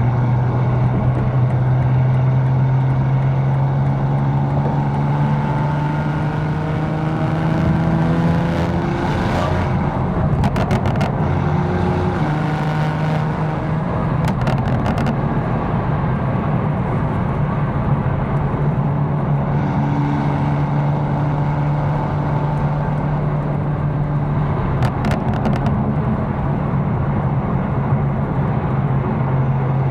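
Tuned BMW M4's engine running while driving, its pitch rising under acceleration about six seconds in, falling back, and climbing briefly again a few seconds later before settling into a steady cruise. A few short clusters of clicks come through along the way.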